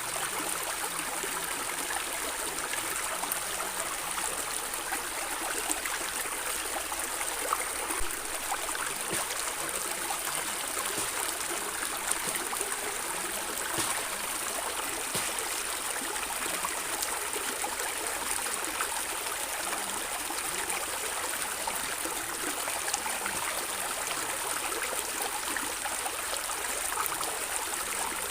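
A stream running and gurgling steadily, water trickling and splashing over stones in a dense patter of small splashes.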